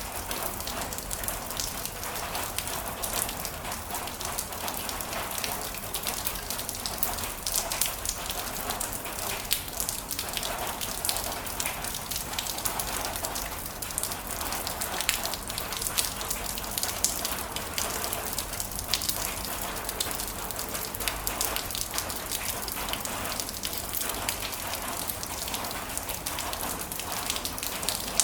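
Heavy rain falling steadily, with a dense pattering of individual drops hitting a surface.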